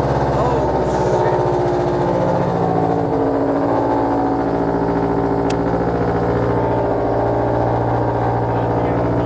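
Car engine idling steadily just after starting, with a small click about halfway through.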